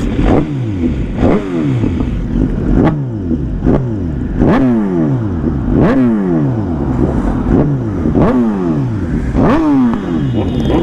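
Sport motorcycle engine revved in quick throttle blips about eight times, the revs jumping up sharply and dying away after each one.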